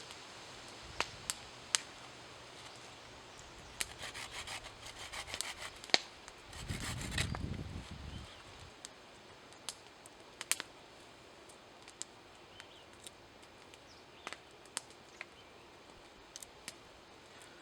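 Hands working with wood and gear: scattered sharp clicks and snaps, a stretch of rustling, and a louder rubbing noise lasting about a second and a half, about seven seconds in.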